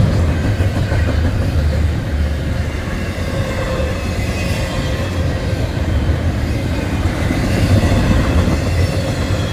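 Norfolk Southern freight train's cars rolling past: a steady, loud rumble of steel wheels on rail, with thin high squealing tones from the wheels above it.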